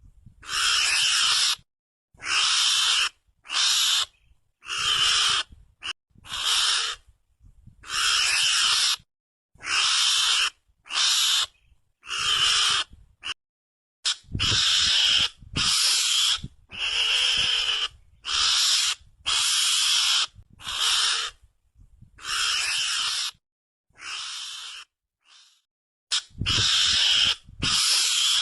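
Recorded mongoose (garangan) lure call: short, harsh, noisy squeals repeated about once a second, with clean silent gaps between them, played back to draw in mongooses.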